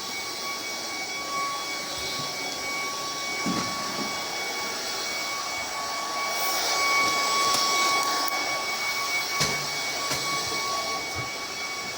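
Vacuum cleaner running steadily: a motor whine over the rush of air, with a light knock about nine and a half seconds in.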